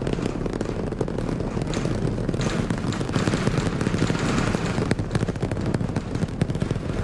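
Super Heavy booster's Raptor engines firing in ascent: a continuous deep rumble with dense crackling.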